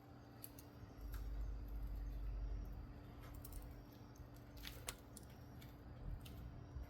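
Wood fire crackling: scattered sharp pops and clicks, with a low rumble for a couple of seconds near the start.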